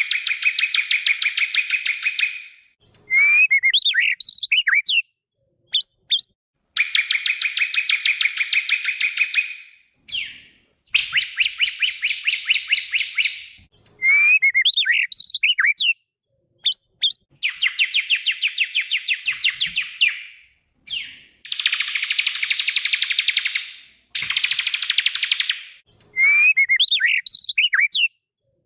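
White-rumped shama (murai batu) song: about six rapid chattering trills, each lasting two to three seconds, alternating with short, quick whistled phrases that slide up and down.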